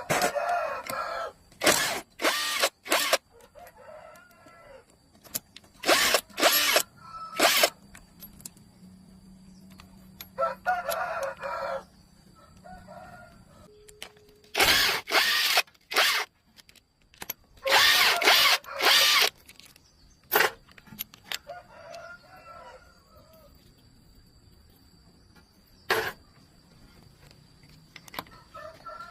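A rooster crows a few times and chickens cluck, between repeated short, loud bursts of a power tool.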